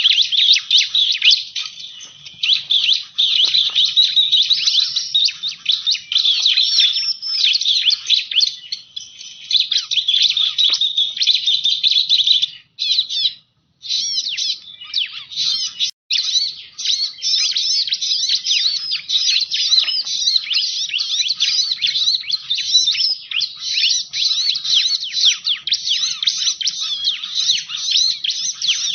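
Bar-winged prinia (ciblek) calling in a rapid, continuous run of high chirps, as a lure recording. The calling breaks off for about a second around halfway through, and there is a brief dropout a few seconds later.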